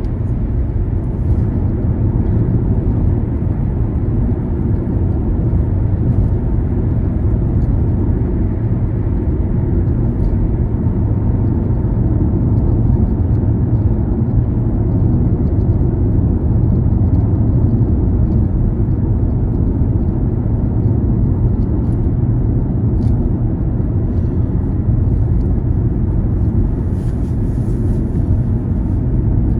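Car driving along at a steady pace: a continuous low rumble of road and engine noise, with a few faint ticks and a brief hiss near the end.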